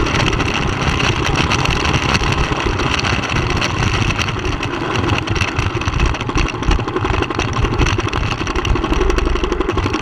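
Middleweight sport motorcycle's engine running on track, heard through an onboard camera with heavy wind noise rushing over it.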